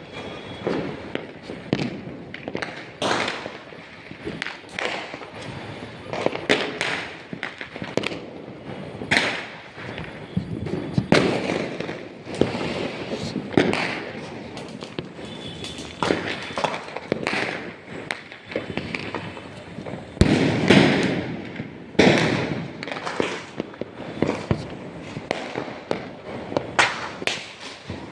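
Fireworks and firecrackers going off in a dense, irregular string of sharp bangs and crackles, one or two a second, with the heaviest bursts about eleven and twenty seconds in.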